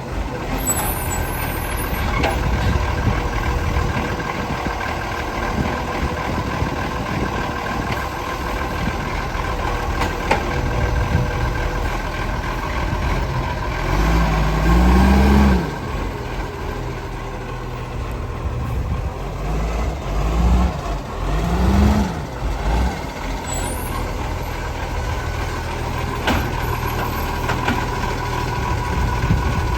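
Garbage truck's diesel engine running steadily, revving up twice with a rising pitch, about halfway through and again a few seconds later.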